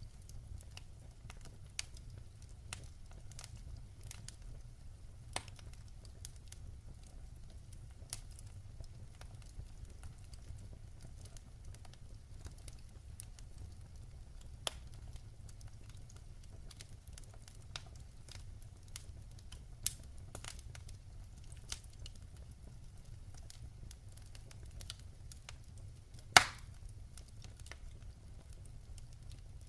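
Wood fire crackling in a fireplace: scattered sharp pops and ticks over a low steady rumble, with one loud pop near the end.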